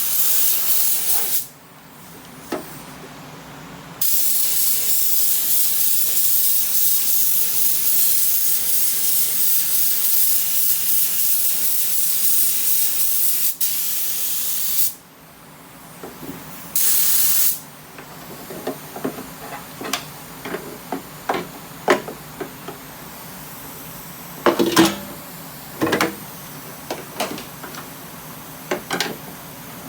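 Small compressed-air touch-up spray gun hissing as it sprays paint: a short burst, then a long pass of about ten seconds, then a brief burst. After that come scattered light clicks and knocks.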